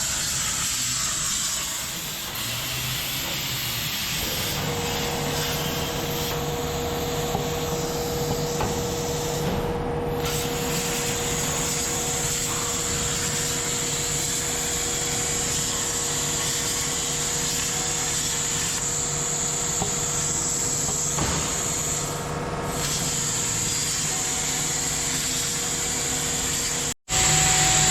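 Industrial laser cutting machine running as it cuts: a steady hiss with a high whine and a lower hum. The sound drops out for a moment near the end and comes back louder.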